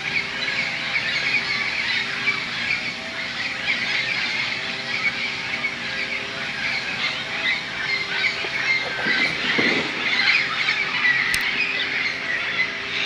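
A large flock of parrots squawking continuously, many harsh calls overlapping into a dense din: the birds gathering to roost for the night.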